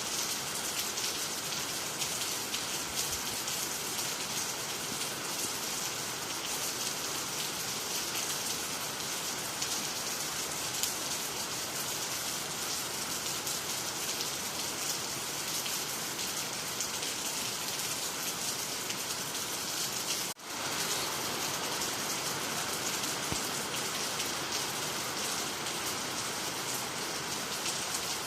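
Steady rain falling on the ground, water and nearby trees, an even patter throughout. The sound drops out for a split second about two-thirds of the way through, then carries on unchanged.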